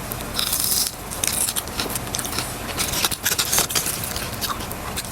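Close-up crunching of fried fish snack: several crisp, crackly bites and chews of the hot breaded coating.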